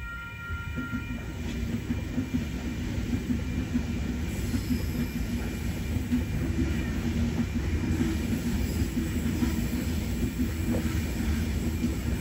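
A train running past close by: a heavy, steady rumble of wheels on the rails that builds over the first couple of seconds and then holds.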